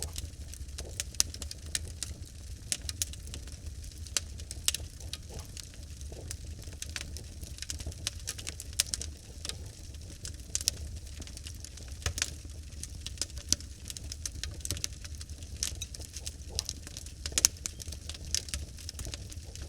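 Wood fire of burning logs in a fireplace, crackling with many irregular sharp pops and snaps over a steady low rumble of the flames.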